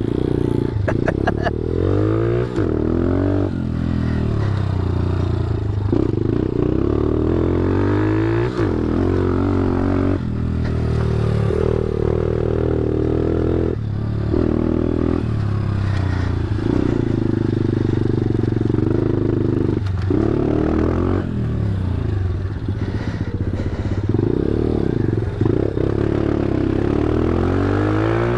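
ThumpStar pit bike's single-cylinder four-stroke engine running while being ridden off-road, the revs rising and falling again and again with the throttle.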